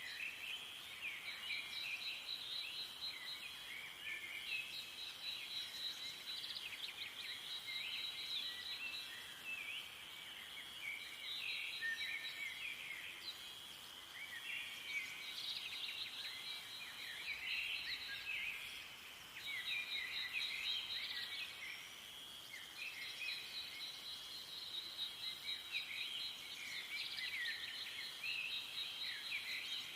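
Small birds chirping and twittering steadily, with a fast, high trill that comes and goes every few seconds.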